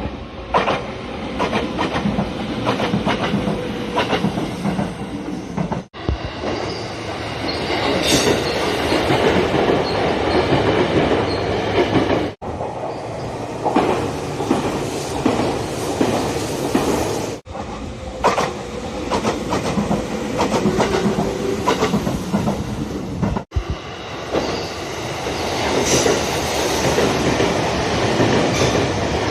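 Nagano Electric Railway express trains running on the rails, with wheels clicking over rail joints and some wheel squeal. The sound breaks off suddenly every five or six seconds as one clip cuts to the next.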